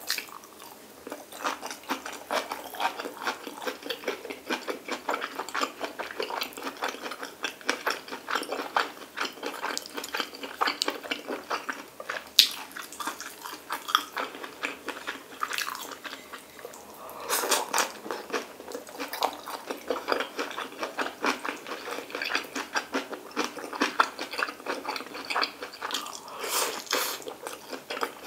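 A person chewing and biting soft, wet food: stir-fried kimchi, pork belly and rice, with many small mouth clicks. There is one sharp click about twelve seconds in.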